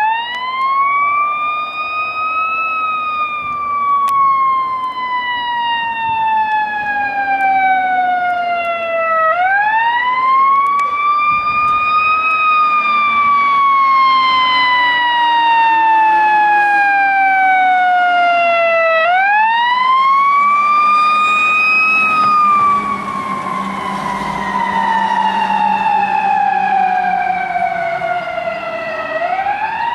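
Fire engine siren in a slow wail: each cycle rises quickly in pitch over about two seconds, then falls slowly for about seven, repeating about three times. It gets somewhat quieter about two thirds of the way through.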